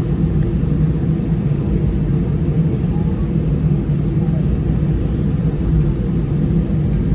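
Steady low rumble inside the cabin of an Airbus A319 on the ground after landing, its engines running at idle.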